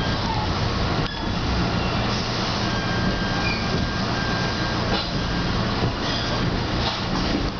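Passenger train heard from inside the coach while it rolls along: a steady rumble and rail noise, with a few sharp clacks of the wheels over rail joints.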